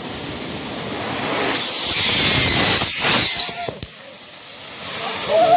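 Lit consumer firework hissing and spraying, building up, with a high screeching whistle from about a second and a half in, then a sharp bang about three seconds in and a smaller crack just after.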